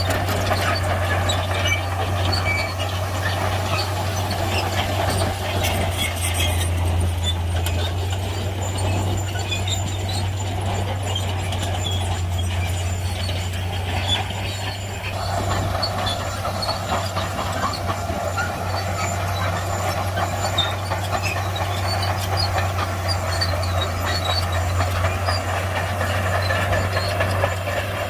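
Shantui crawler bulldozer's diesel engine running under load while pushing soil, with scattered short high squeaks. The engine note eases off for a while around the middle, then picks up again.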